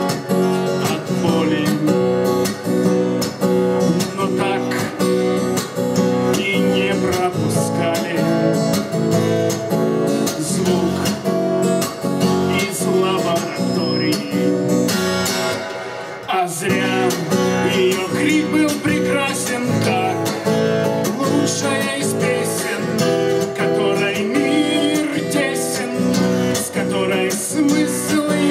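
Acoustic guitar strumming chords in a song's instrumental passage, with a brief drop about halfway through before the strumming picks up again.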